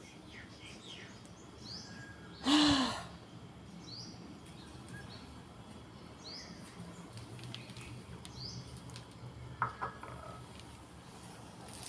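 A small bird chirping over and over, one short hooked call about every second and a half. A brief loud noise cuts across it about two and a half seconds in, and there are two sharp clicks near the end.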